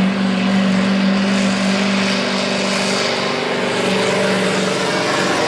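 Diesel pickup truck engine running hard at high, steady revs under load while pulling a weight sled.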